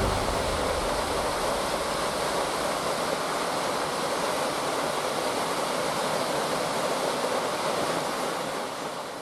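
Waterfall rushing, a steady wash of falling water that fades down near the end.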